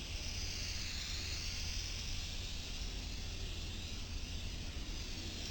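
Aerosol spray paint can hissing steadily as it lays on a thick coat, the hiss swelling and easing slightly.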